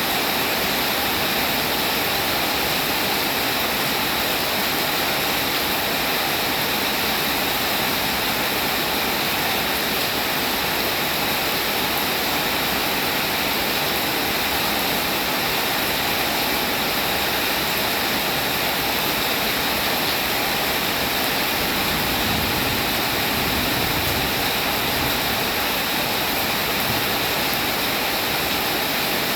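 Steady rain falling, a dense, even hiss that holds constant throughout.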